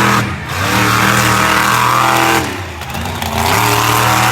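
Monster truck engine revving in long throttle bursts, the pitch dropping briefly about half a second in and again for nearly a second about two and a half seconds in before it picks back up.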